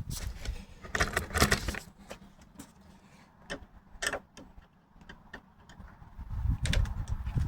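Clicks, clinks and rustling of door hardware and tools being handled, with a few sharp metallic ticks in a quieter stretch and heavier handling noise again near the end.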